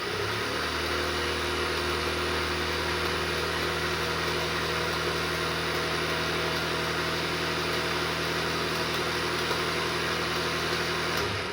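SYM Wolf 125 engine gearbox spun by an electric motor, running at a steady speed with a constant hum and whir, then stopping near the end.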